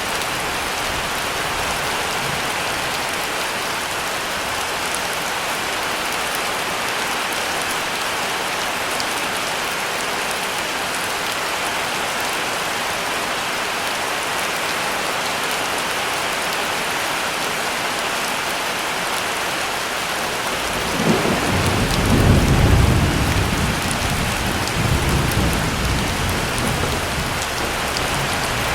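Heavy rain falling steadily, with a roll of thunder rumbling in about three-quarters of the way through and fading away over several seconds.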